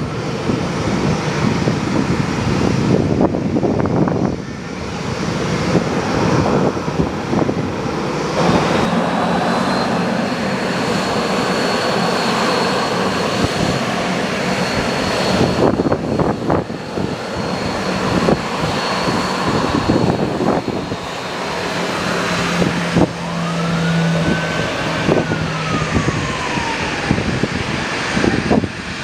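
Aircraft engines running, a steady high whine over a low hum, with a whine that rises and then falls near the end. Strong gusty wind buffets the microphone throughout.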